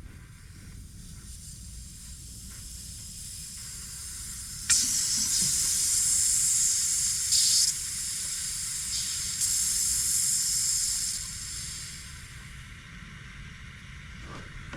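Compressed air hissing out of the 12-volt compressor's plumbing, starting suddenly about five seconds in and lasting about seven seconds, with a steady low rumble underneath.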